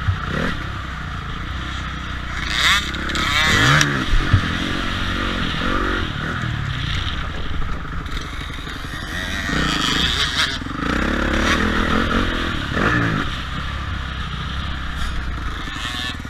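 Motocross motorcycle engines running, revving up and easing off several times.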